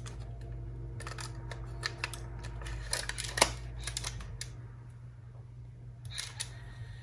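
Small plastic clicks and clatter of a cassette walkman being handled: a cassette loaded, the door snapped shut and the buttons pressed, a few irregular clicks spread over several seconds. A steady low hum runs underneath.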